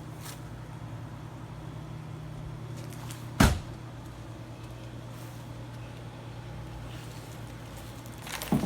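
A steady low hum, with one sharp knock about three and a half seconds in and a couple of lighter clicks near the end.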